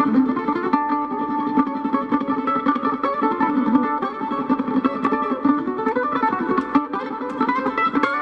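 Mandolin played fast, a rapid run of picked notes with slides between them.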